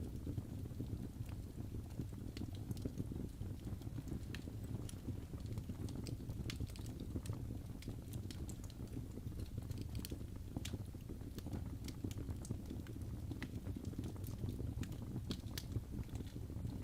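Crackling fireplace ambience: a steady low rumble of burning logs with irregular sharp pops and crackles scattered throughout.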